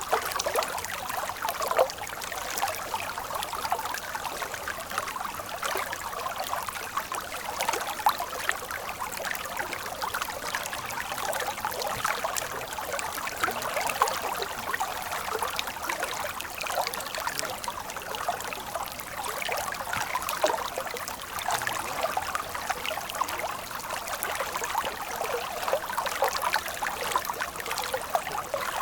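Water running in a stream, a steady splashing trickle with many small irregular splashes and little deep rumble.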